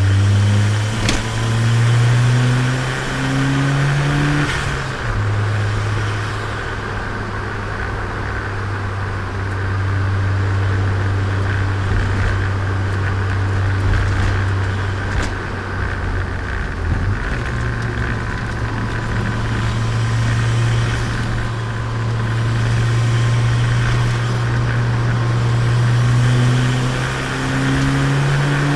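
Turbocharged Nissan Micra engine heard onboard while driving. The revs climb for the first few seconds, drop back at a gear change about four and a half seconds in, hold steady for a long stretch, and climb again near the end.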